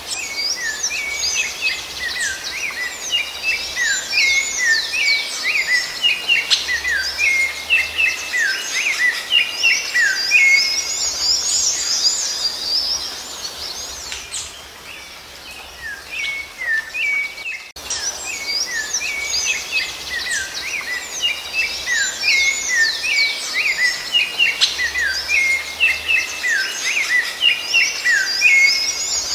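Birdsong: a dense chorus of quick chirps and short whistled down-sweeps. About three-fifths of the way through it breaks off sharply and the same chorus starts over.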